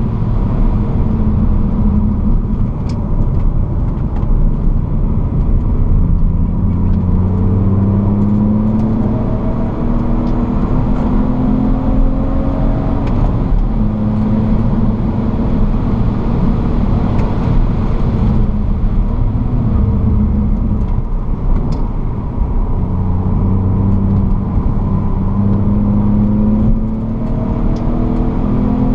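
BMW E46 330Ci's straight-six engine heard from inside the cabin, driven hard on track: the engine note climbs for several seconds, falls back, then climbs again several times. Steady tyre and wind noise runs underneath.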